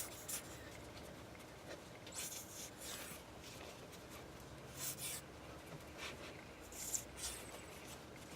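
Faint squeezing of a nearly empty plastic bottle of clear tacky glue, giving a few short hissy, scratchy spurts as air and glue sputter out instead of a smooth flow.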